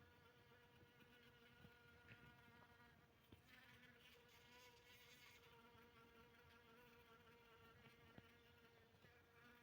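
Bees buzzing: a faint, steady humming drone with overtones, growing brighter for about two seconds in the middle.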